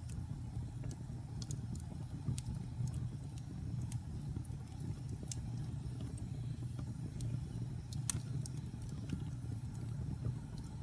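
Wood fire burning in a fireplace: a steady low rumble with scattered sharp crackles and pops, the loudest pop about eight seconds in.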